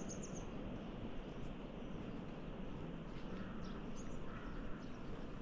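Small birds chirping now and then, short high calls over a steady background rush of outdoor ambience.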